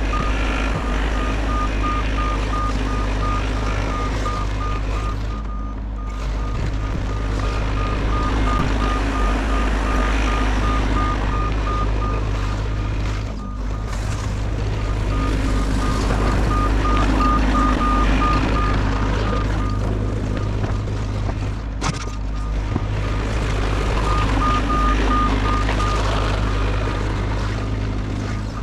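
Bobcat E50 compact excavator's diesel engine running steadily under work, with its travel alarm beeping in quick, even runs that stop and start again as the machine tracks back and forth.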